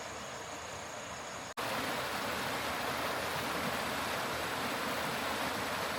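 Steady rush of running water. About a second and a half in it cuts suddenly to a louder, fuller rush.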